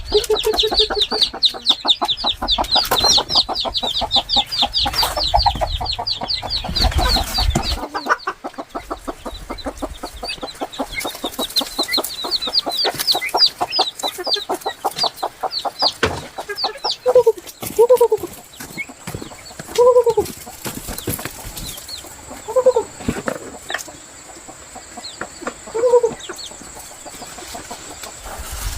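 Chicks peeping in a dense, high-pitched stream, thinning to scattered peeps after about eight seconds. In the second half a mother hen gives about five low clucks, a few seconds apart.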